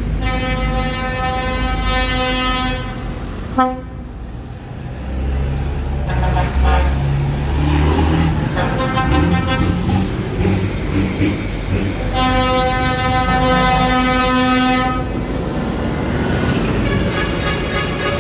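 Vehicle horns sounding as heavy vehicles pass: a long held horn note for about three seconds at the start and again about twelve seconds in, with shorter, fainter horn notes between, over the low steady sound of engines running.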